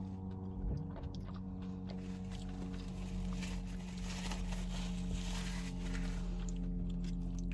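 Close-up chewing and biting of burger and fries, with small wet mouth clicks, over a steady low hum. A hiss swells between about three and six seconds in.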